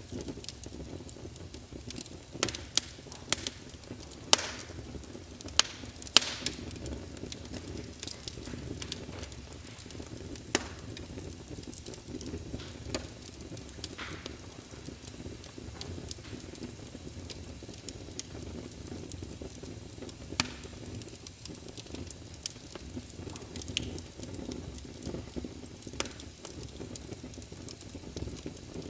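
Wood fire crackling in a fireplace: irregular sharp pops and snaps over a steady low rustle of the flames, with a flurry of louder pops a few seconds in.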